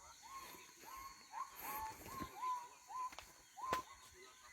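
Faint rainforest animal calls: a run of short whistled notes, each rising quickly and then holding steady, about two a second, with two callers overlapping at slightly different pitches. A sharp click comes near the end.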